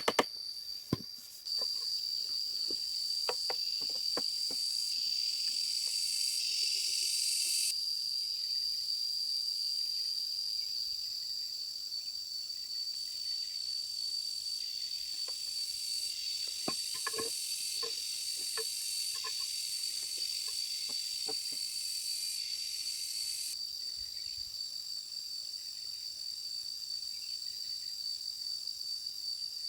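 Insects chirring: one steady high-pitched trill with a wider buzzing hiss above it that cuts in and out. A few faint knocks and clicks come through, most of them a little past halfway.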